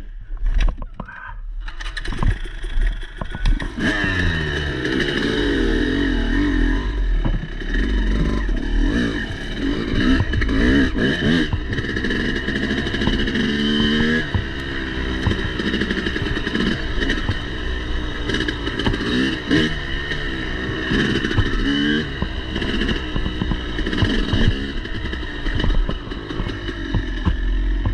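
Motorcycle engine being ridden hard, its pitch rising and falling again and again as the throttle is worked, with clattering clicks throughout. It comes up to full loudness a few seconds in.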